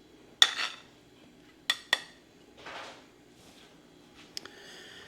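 Metal utensil clinking against a dish while serving food: three sharp, ringing clinks, two of them close together, then a short scrape.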